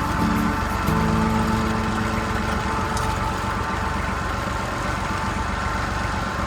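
Engine running steadily, a continuous low rumble.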